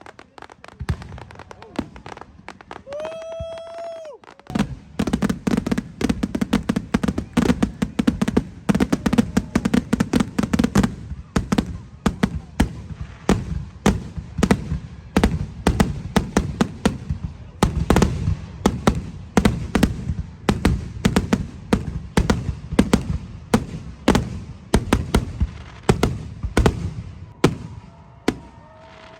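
Fireworks going off: a long, dense run of sharp bangs and crackles, sparse for the first few seconds and then coming thick and fast.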